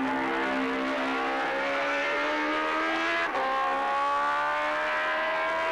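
Racing motorcycle engine accelerating hard, its pitch climbing steadily, with one gear change just past halfway where the note drops and then climbs again.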